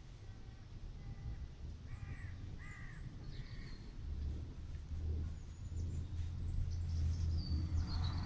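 A bird gives three short, harsh calls about two to three and a half seconds in, while small birds chirp faintly. A low rumble builds from about halfway through and becomes the loudest sound.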